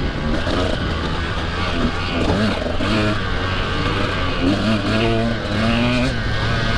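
Husqvarna TE150 single-cylinder two-stroke dirt bike engine running hard, its pitch rising and falling again and again as the throttle is opened and closed.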